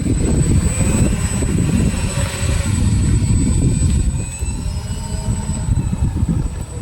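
Twin electric motors and propellers of a Flightline OV-10 Bronco RC plane whining under throttle, the pitch gliding up and down, under heavy wind buffeting on the microphone.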